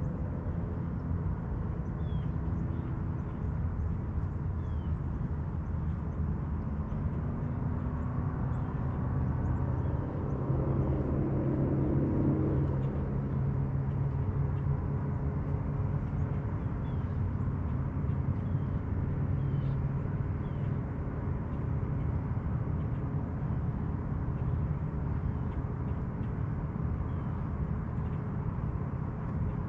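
Motorboat engine droning steadily across the water, swelling to its loudest about ten to thirteen seconds in as the boat passes, then easing off. Faint short bird chirps sound now and then above it.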